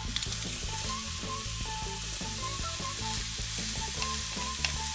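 Garlic and sautéing vegetables sizzling in hot oil in a wok as they are stir-fried, with a steady hiss and a few light clicks of stirring.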